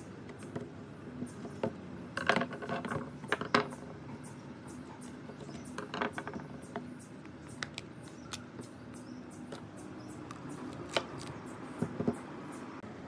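Scattered light clicks and clinks of small metal parts being handled, with a few quick clusters about two, three and a half, six and twelve seconds in, over a faint steady hum.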